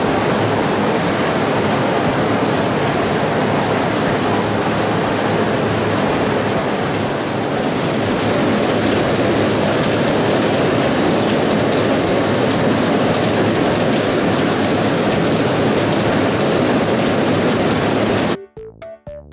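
Heavy downpour of rain, a loud, steady hiss. It cuts off suddenly near the end as light electronic background music with plucked notes starts.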